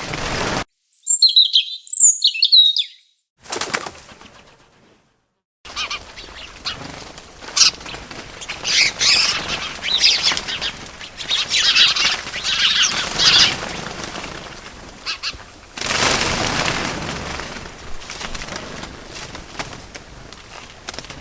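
Birds: a few sharp high chirps about one to three seconds in, then a long stretch of wings flapping mixed with many chirps, with a fresh rush of flapping about sixteen seconds in.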